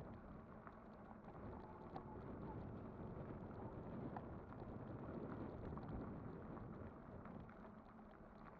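Kugoo Kirin V5 e-bike riding along: steady, fairly faint rolling noise of the tyres and ride, with scattered small clicks and ticks.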